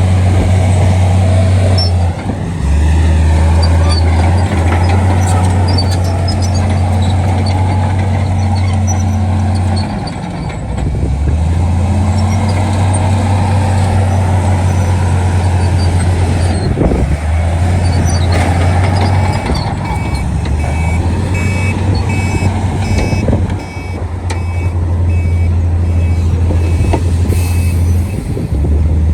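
Heavy diesel engines of earthmoving machines running under load, a deep drone that rises and falls in pitch with the work. About two-thirds of the way in a reversing alarm starts beeping about once a second.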